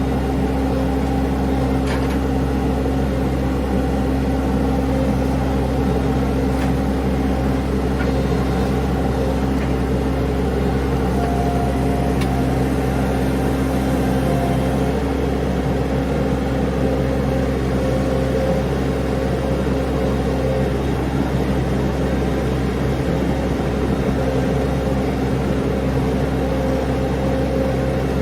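Mini skid steer engine running steadily, with a few light knocks.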